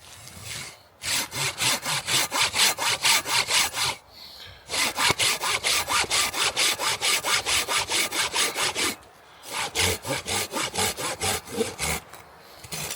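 Hand saw cutting through wood in quick, even strokes, about four a second, in three bouts with short pauses between.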